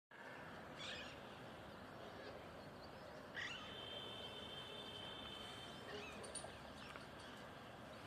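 Faint steady outdoor background noise with a few brief high bird chirps, about a second in, again around three and a half seconds and near six seconds, and a faint steady high tone held for a couple of seconds in the middle.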